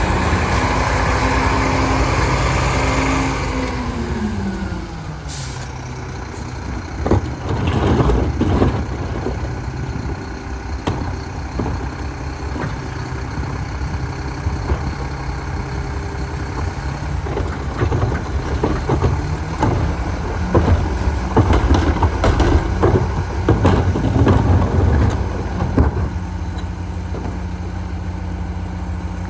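Mack Granite garbage truck's diesel engine drops in revs about four seconds in, followed by a short burst of air hiss. The engine then runs on under repeated metallic clanks and bangs.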